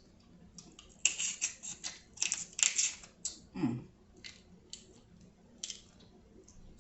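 Close-miked eating: wet chewing and smacking clicks coming in quick irregular clusters, busiest about a second to three seconds in, with a brief low sound about halfway through.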